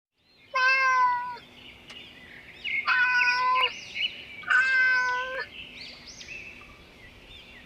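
A cat meowing three times, each call steady and just under a second long, over faint high chirping.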